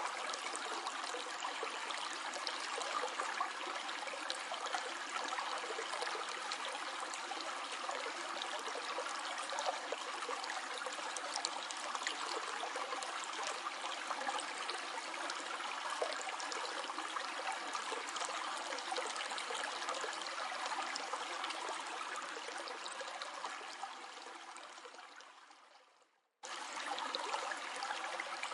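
Flowing stream, water running and trickling steadily. Near the end it fades away over a few seconds to silence, then cuts straight back in.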